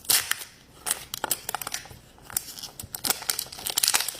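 Crinkling and crackling of a surprise-toy wrapper being handled and torn open by hand, a string of irregular sharp crackles.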